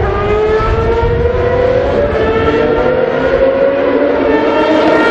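Group C prototype race car's engine pulling hard at high revs, its pitch climbing steadily with a high wail and falling back at an upshift about two seconds in, then climbing again to another upshift at the end.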